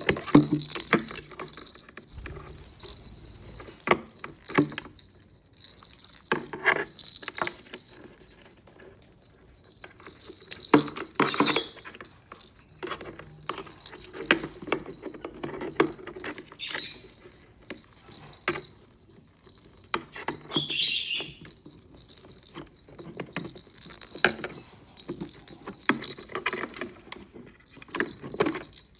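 A pet caique's toy jingling and clinking over and over, with many small taps and rattles in between, and one short shrill call about two-thirds of the way through.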